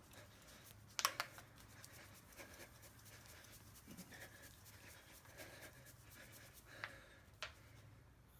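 Near-quiet room with a low steady hum, broken by a few sharp clicks: a quick cluster about a second in and two single clicks near the end.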